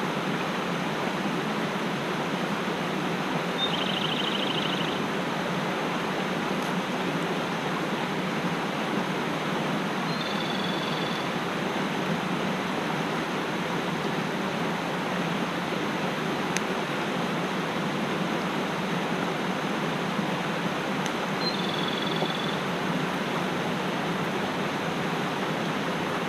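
Mountain stream rushing steadily. A small bird calls briefly three times over it: a short trill a few seconds in, then two brief high calls about ten seconds apart.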